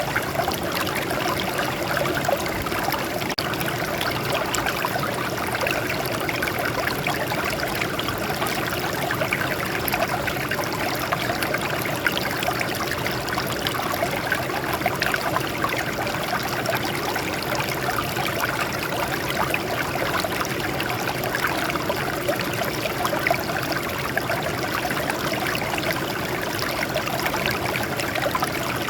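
Water trickling and splashing steadily over rocks, a continuous small stream flow.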